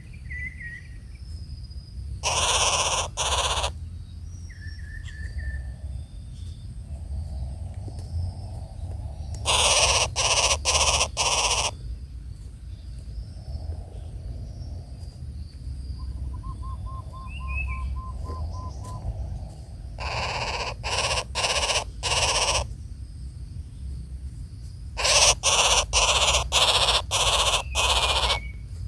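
Birds calling: loud, harsh, rasping calls in quick runs of one to six, with faint low hoots and a few short chirps and a brief trill between them, over a steady high insect drone.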